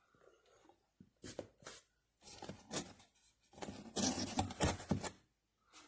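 Irregular rustling and handling noises: a string of short scrapes and rustles, busiest near the end, as objects are handled and unpacked by hand.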